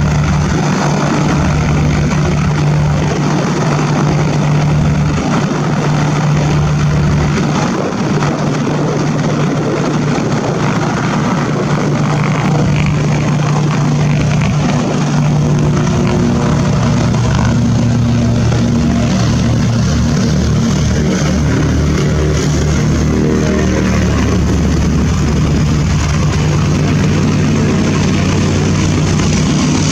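Propeller airplane engine running with a steady, even drone over broad noise. The pitch holds nearly constant, with some higher overtones coming in during the second half.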